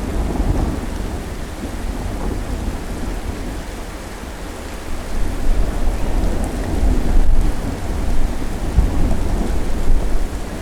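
Thunderstorm: steady rain with a deep rolling thunder rumble that swells about halfway through and stays loud until near the end.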